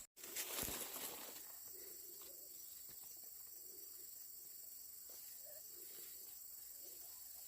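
Quiet outdoor ambience: a faint steady high insect hiss with soft, low bird-like calls now and then, and a few short rustles or steps in the first second or so.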